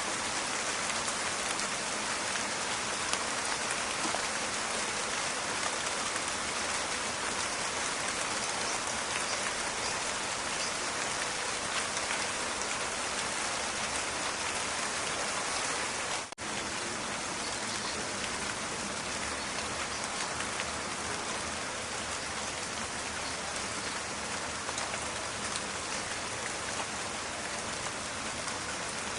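Steady rain falling in a forest, a dense, even crackling patter of drops. It cuts out for a split second just over halfway through.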